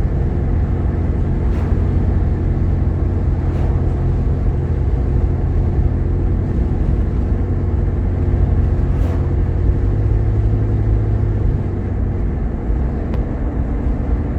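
Jeep Grand Cherokee's 3.7-litre V6 and tyres heard from inside the cabin while driving: a steady drone with a few faint knocks.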